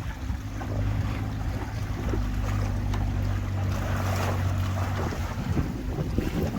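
Tour boat's engine running with a steady low hum, over wind noise on the microphone and water washing past the hull. The engine's hum drops away about five seconds in.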